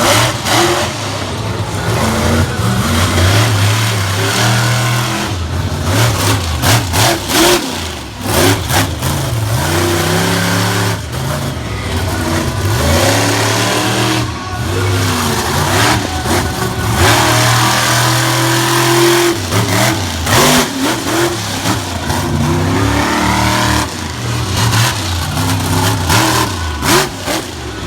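Monster truck engine revving hard, its pitch rising and falling over and over through a run, with several short sharp bangs.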